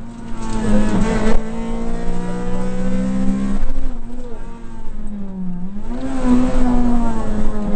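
Rally car engine heard from inside the cockpit, running hard at high revs. About five seconds in the revs drop steeply to a low dip, then climb again near six seconds as the car accelerates.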